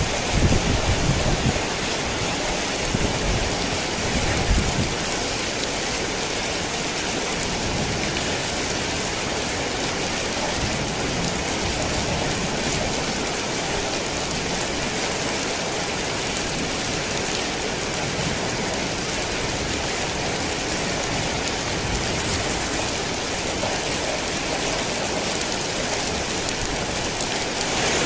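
Heavy rain falling in a steady, dense downpour. Low rumbling sits under it in roughly the first five seconds.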